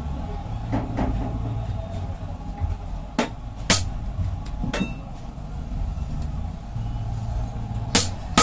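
Sharp metallic knocks and clinks, one at a time and a second or more apart, from tools working on metal, over a low steady rumble.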